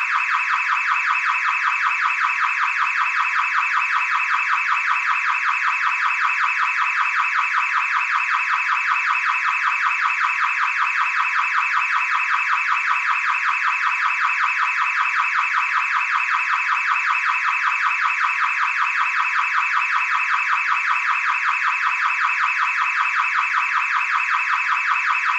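Car alarm sounding a steady, fast-pulsing tone that repeats several times a second without a break or change in pitch.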